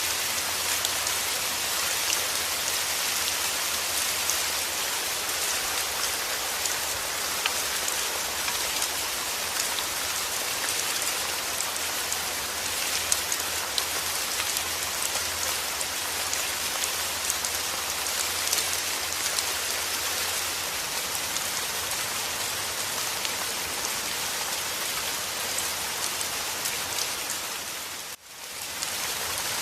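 Steady heavy rain, an even hiss dotted with the clicks of individual drops. Near the end the sound dips away for a moment and comes straight back.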